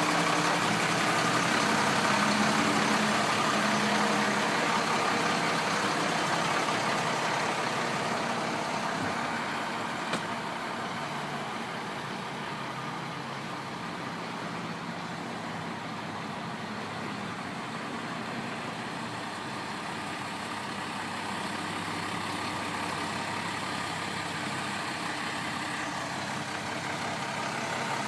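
The DT466 diesel engine of a 1993 International 4900 dump truck idling steadily. It grows somewhat quieter through the middle and louder again near the end.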